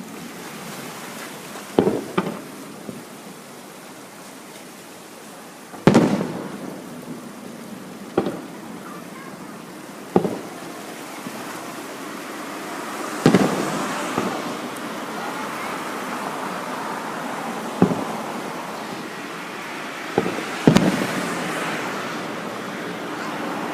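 Aerial fireworks shells bursting overhead: about nine loud booms at irregular intervals, each followed by a rolling echo, with a steady hiss rising behind them in the second half.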